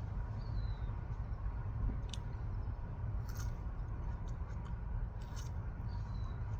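A few short crisp cutting and squishing sounds as a fresh chili pepper pod is cut open, over a steady low hum.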